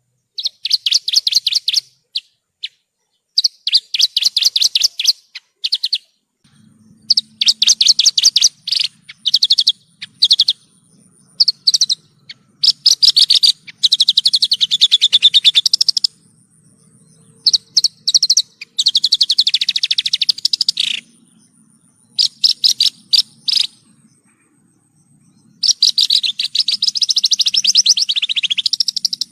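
Javan bush lark (branjangan) singing a loud, rapid, trilled song in phrases a second or two long, broken by short pauses.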